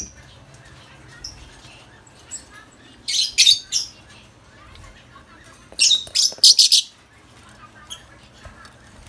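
Lovebirds giving shrill, high-pitched chirps in two quick clusters, about three seconds in and again about six seconds in.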